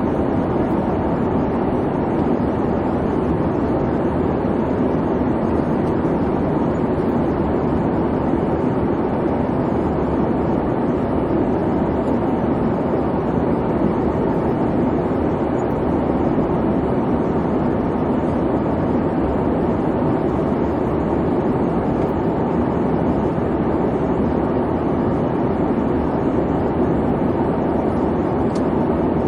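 Airplane cabin noise in flight: the steady, even rumble and hum of the engines and cabin, with no change over the whole stretch.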